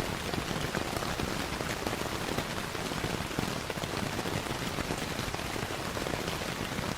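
Steady rainfall, a dense patter of drops, mixed with the scattered pops and ticks of a crackling fireplace.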